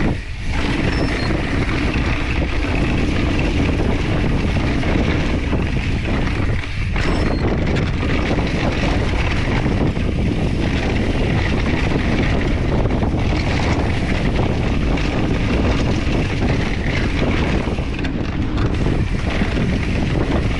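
Wind rushing over the microphone and tyre rumble from a mountain bike rolling fast down a dirt trail, with short lulls near the start and about seven seconds in.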